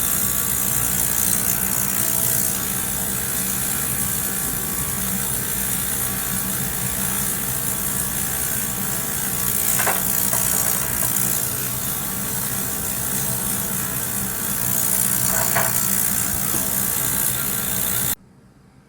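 Ultrasonic cleaner running with diamond-coated dental milling burrs in distilled water, a steady buzzing hum under a loud hiss, shaking milling waste off the burrs. It cuts off abruptly near the end.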